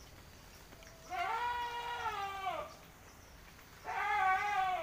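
Two long calls from a farm animal, the first held about a second and a half, the second shorter, each dropping in pitch as it ends.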